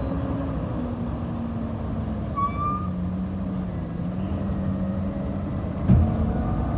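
Garbage truck engine running with a steady low drone, its pitch easing down near the start and then holding. A short high squeak comes about two and a half seconds in and a sharp thump about six seconds in.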